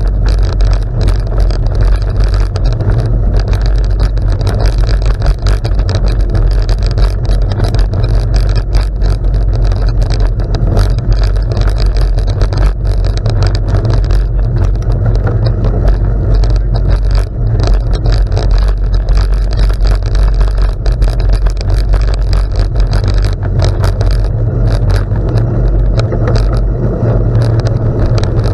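Wind rushing over the microphone with tyre noise from a bicycle rolling on gravel. A steady low rumble runs under frequent small clicks and rattles.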